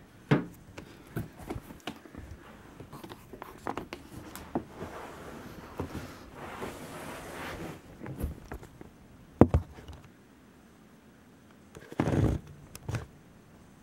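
Handling noise from a camera being set up and mounted by hand: scattered clicks, rustling and small knocks, with one sharp knock about two-thirds of the way through and a heavier bump near the end.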